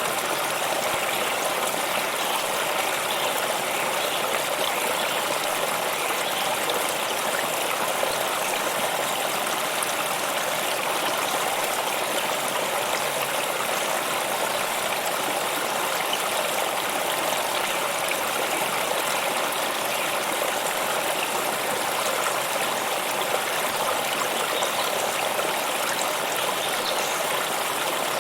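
A stream of water running steadily over rocks, an even rushing and trickling.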